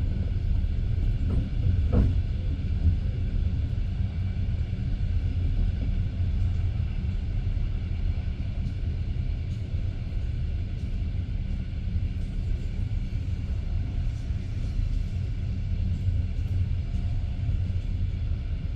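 Passenger train carriage running on the rails, a steady low rumble of the wheels heard from inside the car, with a brief knock about two seconds in.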